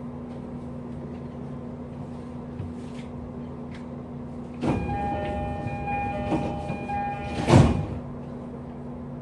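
JR East E231 series 1000 commuter train standing at a station, its onboard equipment giving a steady hum. About halfway through, the door-closing chime sounds in repeated tones as the sliding doors close, shutting with a loud thud near the end.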